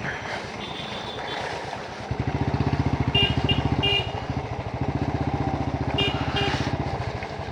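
Motorcycle engine running under way. About two seconds in it gets louder as the throttle is opened, then it eases back near the five-second mark.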